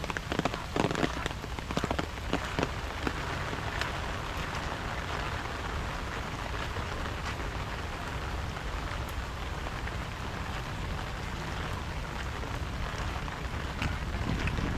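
Steady rain falling, a continuous hiss with sharper, closer drops ticking in the first few seconds.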